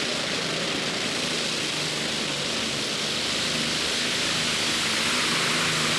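Modified pulling tractor with four Allison V12 aircraft engines running, a steady rushing engine noise that grows slightly louder toward the end.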